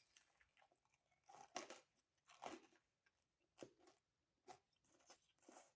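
Close-miked chewing of pizza, soft crunches of crust, in short scattered bursts.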